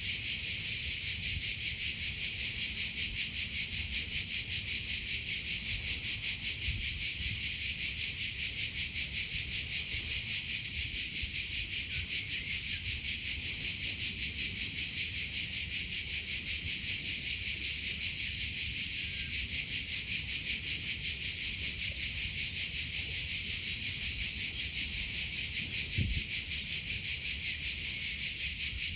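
Crickets chirping without a break: a steady, high-pitched, rapidly pulsing trill.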